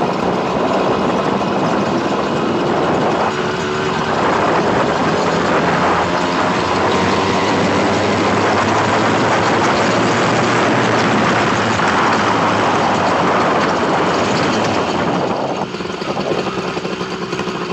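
Motorized bicycle's small two-stroke engine with an aftermarket expansion pipe, running steadily while the bike is ridden. It gets quieter about fifteen and a half seconds in.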